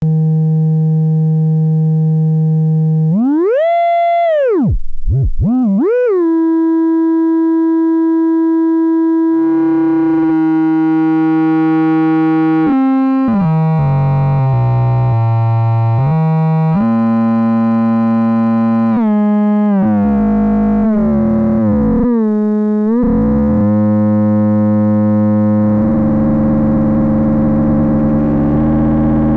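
Sovage Engineering OXYMORON Eurorack module, fed a sine-wave source, putting out a buzzy synth tone rich in overtones as its settings are tweaked. The pitch swoops up and back down a few seconds in, holds steady, then splits into layered tones that step and glide, and near the end thickens into a denser, noisier buzz.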